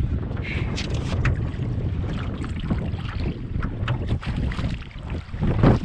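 Wind buffeting the microphone on a rowboat on open water: a steady low rumble, with scattered light knocks and clicks and one louder knock near the end.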